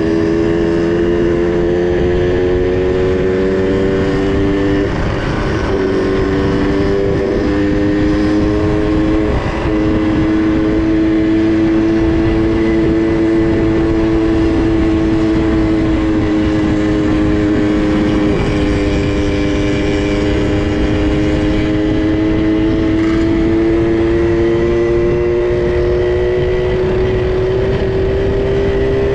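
Small two-stroke minibike engine running at steady cruising speed while riding, its pitch dipping briefly a few times with the throttle and climbing slowly near the end, over wind rumble on the microphone.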